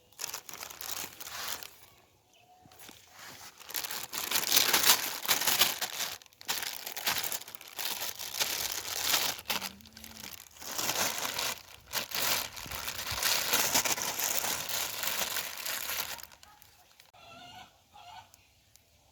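Loud, irregular rustling and crinkling noise with brief gaps, dying away about three seconds before the end.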